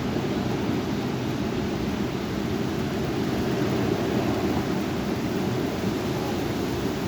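Heavy wind of a severe thunderstorm blowing steadily: a deep, even rush of noise.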